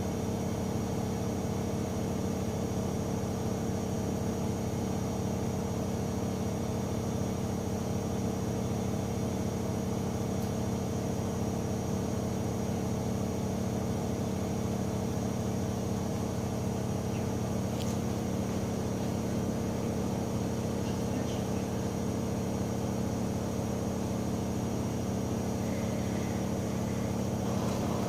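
AEG Öko-Lavamat 88840 washing machine running with a steady motor hum and a thin high whine above it, unchanging throughout.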